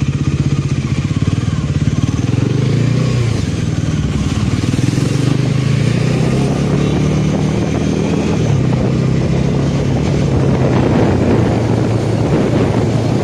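Motorcycle engine running while riding, its pitch stepping down twice, with a rising rush of noise over the last few seconds.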